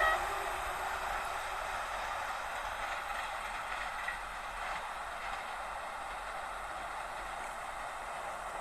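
A passenger train's wheels rolling on the rails make a steady rushing noise that slowly fades as the train moves away. The horn's last note cuts off right at the start.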